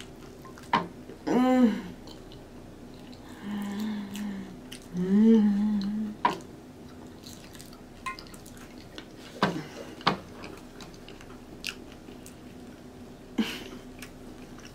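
Close-miked chewing of a soggy, cheese-sauce-covered nacho taco, with wet mouth clicks and smacks every few seconds. Three short hums of enjoyment come in the first six seconds.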